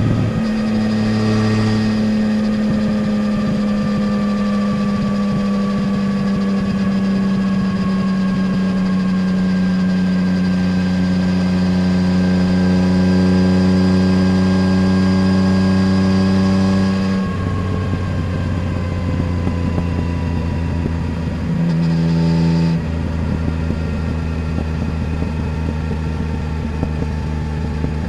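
Yamaha Tracer 900 GT's 847 cc inline-three engine, breathing through a full Roads Italia exhaust, pulling at steady revs under light throttle. About 17 seconds in the note drops off as the throttle is closed. Around 22 seconds it briefly picks up, then it runs on steadily at lower revs.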